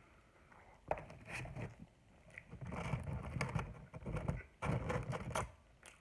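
Close-up eating sounds: a person chewing food in irregular wet, crunchy bursts, with a pause about two seconds in.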